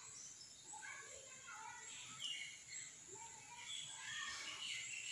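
Birds chirping in the background, many short high calls overlapping one another.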